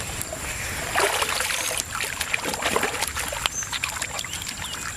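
Water splashing and sloshing as hands dig through river mud and shallow water to gather freshwater mussels, with many short clicks and knocks.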